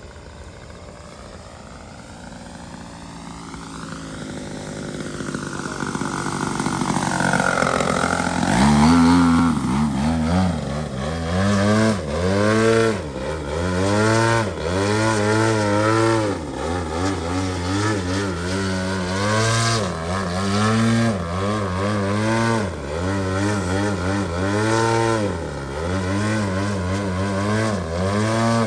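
Engine and propeller of a large model aerobatic biplane in flight. It starts faint with a slowly sweeping pitch, grows much louder about eight seconds in as the plane comes close, then rises and falls in pitch again and again, about once a second.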